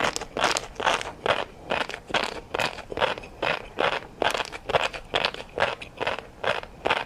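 A person chewing food close to the microphone, with regular chews a little over two a second.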